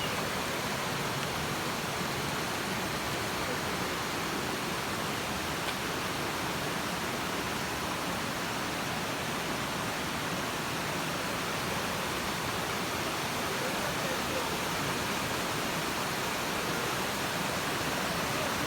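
Waterfall, a steady even rush of falling and flowing water.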